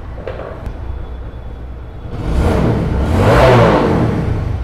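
Motorcycle engine running steadily, then revved up about two seconds in and eased back down. It runs smooth with no 'bat bat' exhaust puffing, the leaking exhaust-pipe collar at the cylinder head having been replaced.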